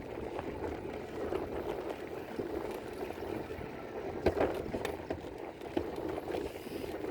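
Steady rush of wind on the microphone and rolling noise from a moving e-bike, with one sharp knock about four seconds in.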